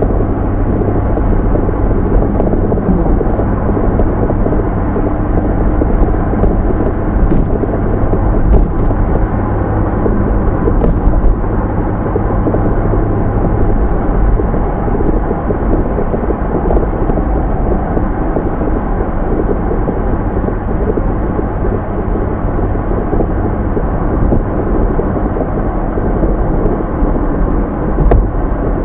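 Steady low rumble of a car driving, with tyre and engine noise heard muffled inside the cabin through a dashcam microphone.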